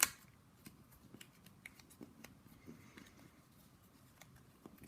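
A sharp click, then faint, scattered small clicks and taps of a little plastic Kinder Surprise toy being handled and tried for spinning.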